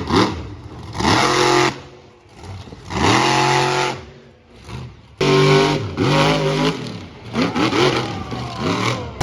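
Monster truck engines revving hard in repeated bursts, each swelling and sweeping up and down in pitch, with quieter dips between them. One burst starts abruptly about five seconds in.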